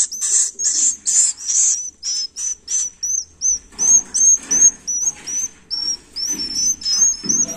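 Swiftlet chicks calling in a rapid series of high chirps, raspy for the first two seconds, then thin hooked chirps about three or four a second.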